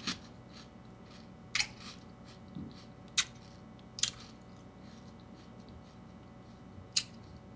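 Someone eating a bowl of frosted flakes in milk: quiet chewing broken by four sharp clicks at uneven intervals.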